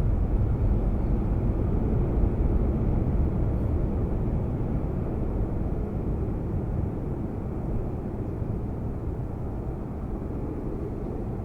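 Jet airliner engines rumbling low and steady, slowly easing off.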